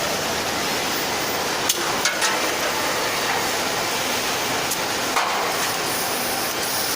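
Electric welding arc on stainless steel: a steady hiss with a few sharp crackles.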